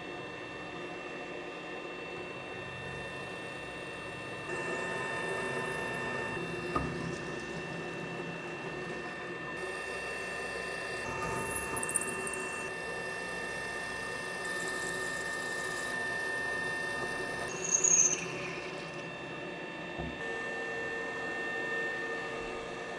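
Metalworking machine tool running with a steady whine, with a few short high squeals of metal cutting about halfway through and again later.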